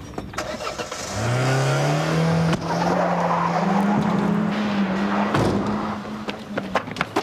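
Car engine revving and accelerating away. Its pitch rises over the first couple of seconds, then holds steady, with a short break partway through, and it fades out near the end.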